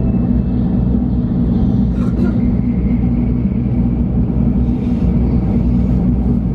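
Shinkansen bullet train running at speed, heard from inside the passenger cabin: a steady low rumble and hum from the running gear.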